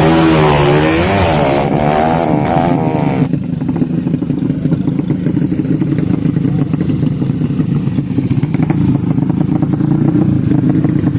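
Drag-racing motorcycle engines revving, their pitch wavering up and down, cutting off abruptly about three seconds in; a steady engine drone carries on after.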